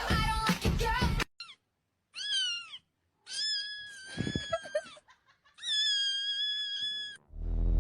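Cat meowing: three separate high-pitched meows, a short falling one and then two long, steady ones. They follow a louder, noisier sound that stops about a second in.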